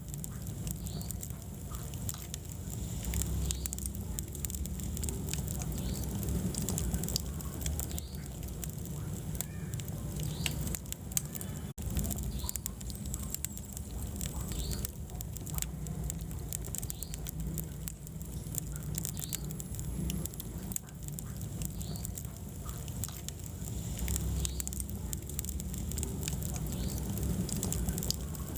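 Wood fire burning in a fireplace: frequent small crackles and pops over a steady low rumble of the flames.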